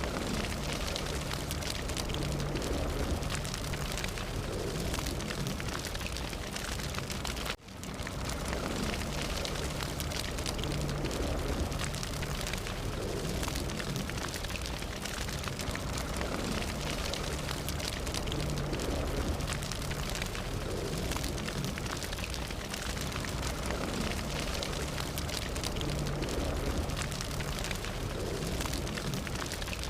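Fire burning: a steady low rush with dense crackling and popping throughout, cutting out for a split second about seven and a half seconds in.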